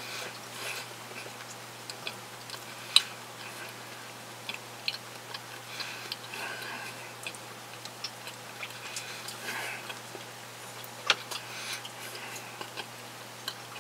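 Chewing a bread and salami sandwich with the mouth closed: soft, irregular wet clicks and smacks from the mouth, with two sharper clicks about three seconds in and near eleven seconds.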